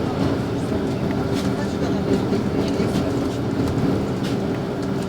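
Inside the cabin of a LiAZ 5292.65 city bus: the engine running with a steady low hum, with short rattles and clicks from the bodywork and fittings scattered through it.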